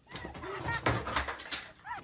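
A series of short animal calls, each rising and falling in pitch, with a noisy stretch in the middle.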